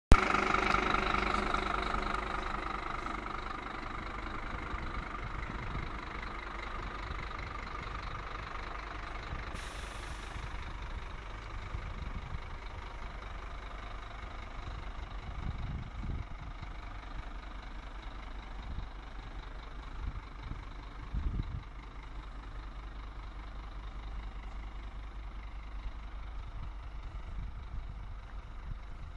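Scania P310 truck's diesel engine running steadily, loudest in the first few seconds. There is a short hiss about a third of the way in and a few low thuds in the second half.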